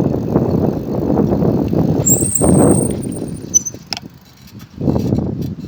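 Wind buffeting the microphone while riding a bicycle: an uneven low rumble that drops away for about a second near the end, then comes back.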